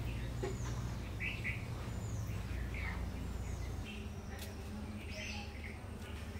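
Small birds chirping, short calls about once a second, some sliding down in pitch, over a low background rumble that eases about four seconds in.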